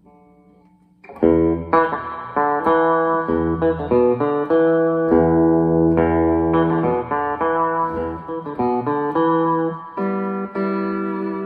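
Electric guitar chords played through a 1970s Traynor YGM-4 25-watt combo amp with four 8-inch Marsland speakers. The chords begin about a second in and ring on, changing every second or so.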